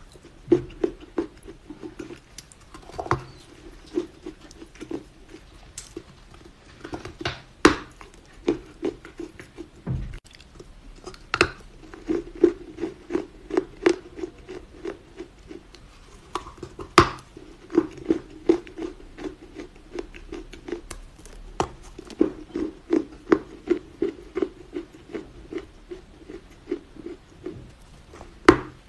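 Close-up crunching of soft Chinese loess (dried earth) being bitten and chewed: a fast patter of small crisp crackles over a steady chewing rhythm of a few jaw strokes a second, with a handful of louder sharp snaps as fresh pieces are bitten off.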